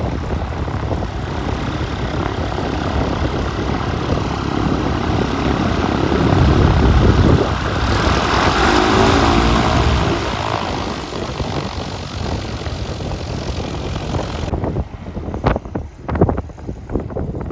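Propeller airplane passing close, swelling to its loudest about halfway through and then fading. Near the end the sound changes abruptly to wind buffeting the microphone.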